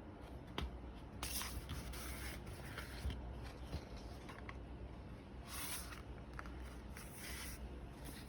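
Several short rustling, scraping sounds of material being handled, with a few faint clicks between them.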